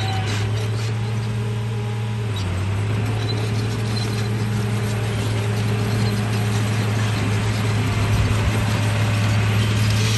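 RC bulldozer's drive motors and gearing running, a steady hum with a dense rattle of small clicks from the gears and tracks.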